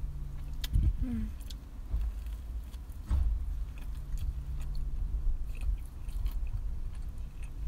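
A ham and cheese toastie being bitten into near the start and then chewed close to the microphone, with small crisp clicks from the toasted bread.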